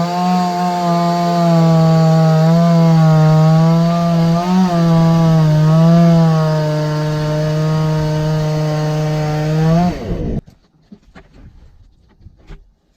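Two-stroke chainsaw running at high revs while cutting wood, its pitch dipping briefly a few times under load. About ten seconds in, the engine winds down and stops, leaving a few faint knocks.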